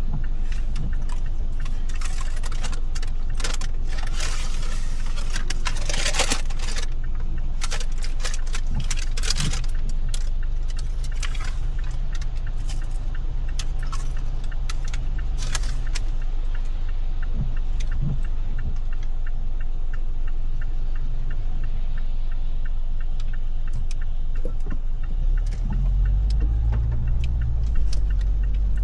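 Car driving in rain: a steady low rumble of engine and tyres, with irregular sharp clicks of raindrops striking the car, thickest in the first half. The rumble grows louder near the end.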